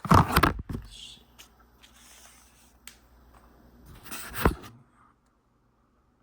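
Packaging being handled during an unboxing: a loud burst of rustling and scraping at the start, quieter crinkling and small clicks, and another loud scrape about four seconds in, after which the sound cuts out completely.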